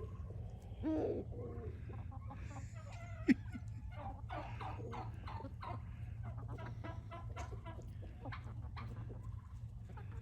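A flock of backyard chickens clucking while feeding on scattered food scraps: many short calls overlapping, one louder call about a second in, and a single sharp tap a little after three seconds.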